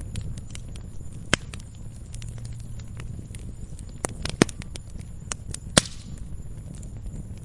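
Wood fire crackling in a fireplace: irregular sharp pops and snaps, a few louder ones, over a steady low rumble of the burning.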